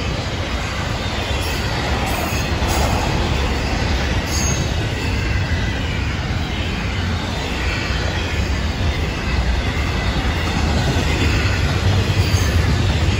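Intermodal freight cars, loaded with trailers and double-stacked containers, rolling past close by: a steady rumble of steel wheels on the rails with a few scattered clicks.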